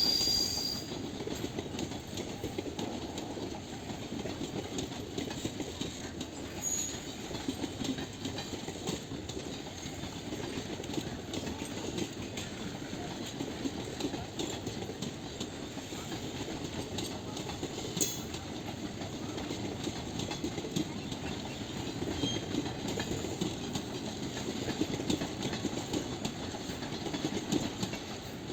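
Passenger train running along the track: a steady rumble and clatter of the wheels on the rails, with a single sharp click about 18 seconds in.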